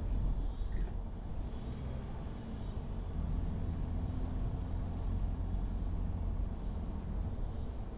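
A car driving: steady low engine and road rumble with a faint hum.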